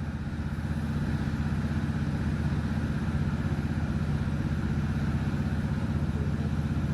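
British Rail Class 156 diesel multiple unit's underfloor diesel engine running steadily as the train pulls away. It gets a little louder over the first second, then holds at a steady even pitch.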